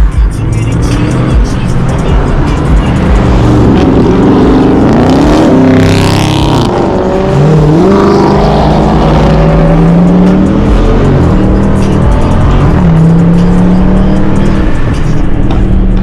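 V8 muscle car engines revving and accelerating, the pitch climbing and falling several times and holding steady between pulls, with a brief hiss about six seconds in.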